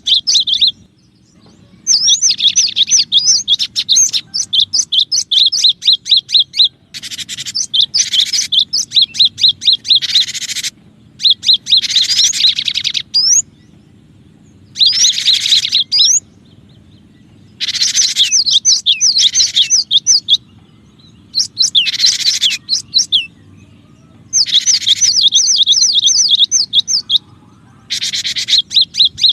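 Cinereous tit (gelatik batu) calling loudly in phrases of rapid, high, repeated notes, each lasting one to three seconds, with short pauses between them.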